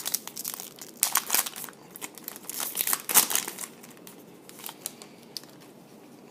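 A trading-card pack wrapper being torn open and crinkled by hand. There is a dense run of sharp crinkles over the first three seconds or so, then only a few faint ones.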